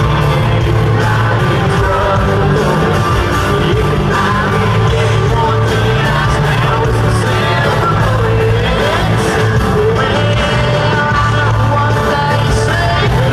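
Live country band playing loudly, with a male lead vocal singing the melody over a steady bass and drums.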